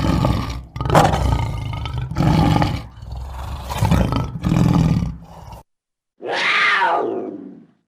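A large wild animal roaring, about five deep calls in a row. After a short gap, a separate call falling in pitch near the end.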